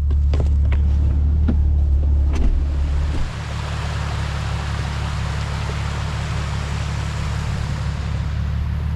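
Vehicle engine droning steadily while driving a snowy trail, louder for the first three seconds with a few knocks, then easing off as a steady hiss comes up.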